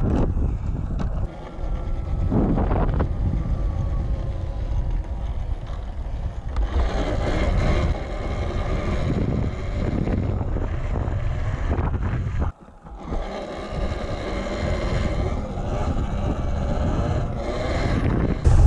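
Wind buffeting the microphone and tyre rumble while riding a Talaria Sting electric dirt bike over a trail, with a faint falling motor whine a couple of seconds in and a brief drop in the noise about twelve and a half seconds in.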